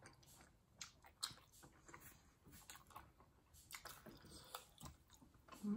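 Faint chewing of momo dumplings close to the microphone: soft, irregular little clicks of mouths at work.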